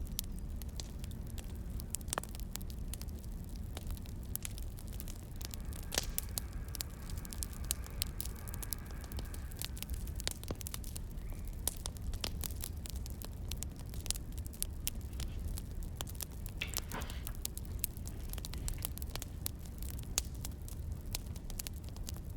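Burning firewood crackling, with dense irregular sharp pops and clicks over a low steady rumble, mixed with keyboard typing.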